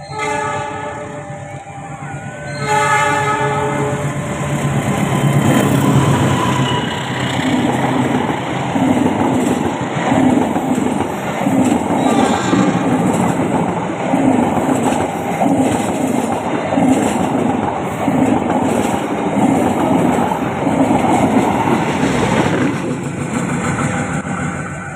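Locomotive horn sounding in two blasts, the second about three seconds in. Then a passenger train passes close at speed, its wheels clattering over the rail joints in a steady rhythm. The noise drops away near the end.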